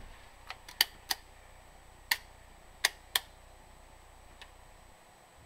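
Light switches being flipped: about six sharp clicks in the first three and a half seconds, some in quick pairs, then quiet room tone.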